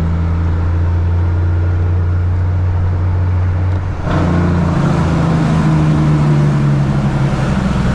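Caterpillar 3406E inline-six diesel in a Freightliner FLD120 tractor pulling hard under acceleration, heard from the cab with the driver's window partly down. There is a short dip about four seconds in, then it runs louder and harsher.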